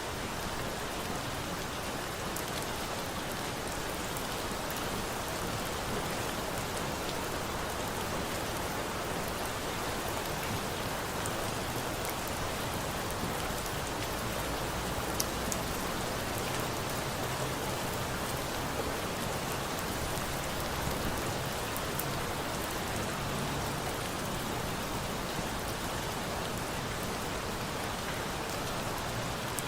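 Steady rain, an even dense patter of drops falling on a surface, with a few sharp high ticks now and then.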